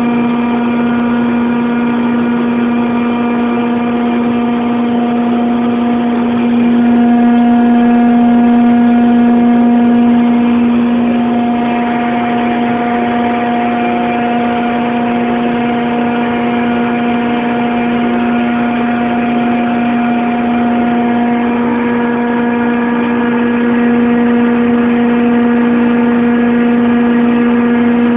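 York screw compressor running steadily: a loud machine hum with one strong low drone and a stack of higher tones above it. A hiss is added for about three seconds from around seven seconds in, and faintly again near the end.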